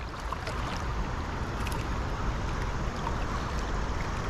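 River current rushing steadily, with a deep rumble underneath.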